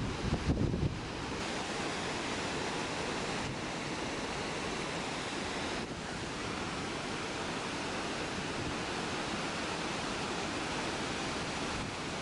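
Steady rushing of a large waterfall, Skógafoss, close up, with wind buffeting the microphone in the first second.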